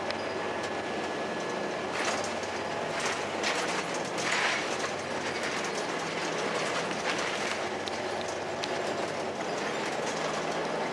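2002 Blue Bird CS transit bus under way: its Cummins ISC inline-six diesel running steadily under road noise, with scattered rattles and clicks from the body.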